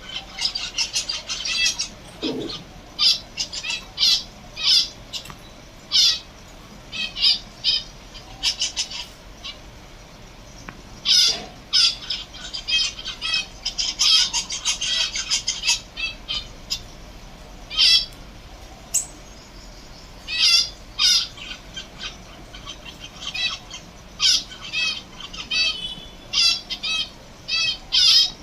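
Several caged finches chirping and calling, short sharp high notes coming in quick clusters with brief gaps, several birds overlapping at times.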